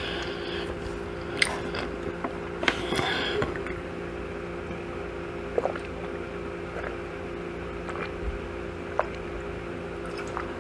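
Close-up eating sounds: chewing and biting into chicken and waffles, with scattered sharp mouth clicks and a short noisy bite about three seconds in, over a steady low hum.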